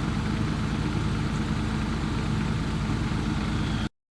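1980 Land Rover Series III engine running steadily with an even hum, cutting off abruptly just before the end.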